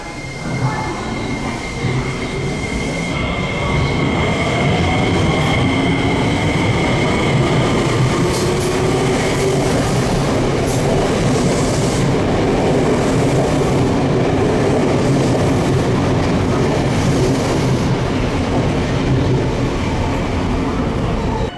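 Tokyo Metro 7000 series train pulling out of an underground station: its motor whine rises in pitch as it gathers speed over the rail, the sound building over the first few seconds and then holding as a steady rumble.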